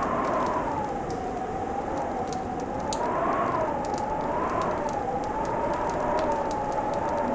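Fireplace crackling with sharp scattered pops over a steady hiss. Beneath it runs a howling tone that slowly rises and falls in pitch.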